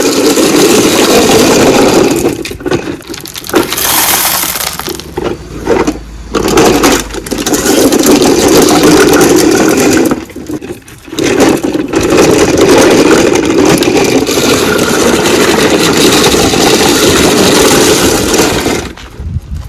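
Gritty scraping and crunching of sand worked by a plastic toy excavator and trucks. It comes in long stretches broken by short pauses.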